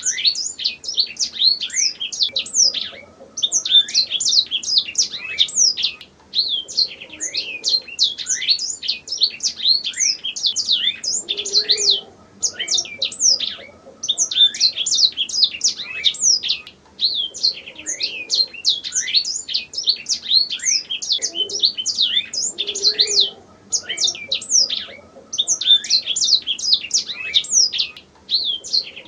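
Domestic canary singing its song: long phrases of rapid chirps and trills, broken by short pauses every few seconds.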